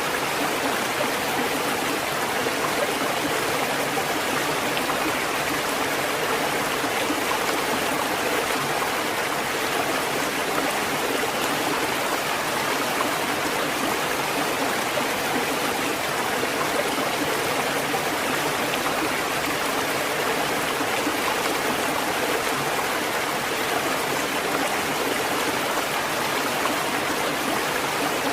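Steady rushing water, an even hiss-like flow that holds one level throughout without the swell and fall of breaking waves.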